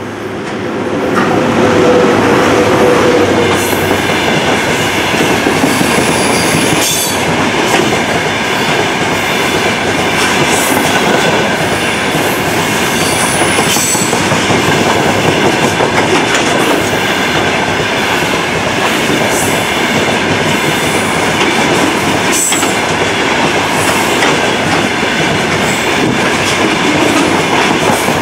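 A freight train hauled by a VL80K electric locomotive passes close by, then a long string of open gondola wagons rolls past. It makes a steady, loud rolling rumble with the clack of wheels over rail joints and short high squeals from the wheels now and then. The noise swells over the first two seconds as the locomotive goes by.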